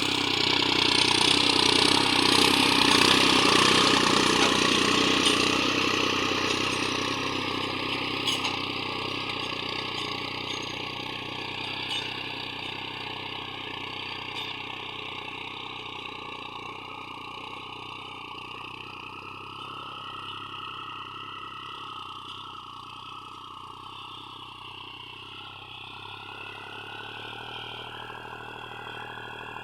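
New Holland 3630 tractor's diesel engine running in second gear while pulling a harrow. It is loudest at first, fades over several seconds, then holds steady.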